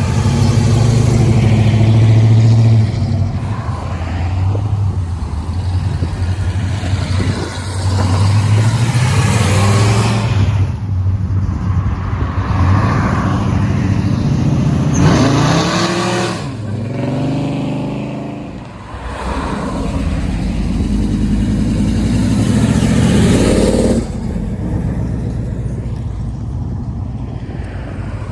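Car engines running, with the revs rising and falling as cars rev and pull away, most clearly in the middle and again near the end.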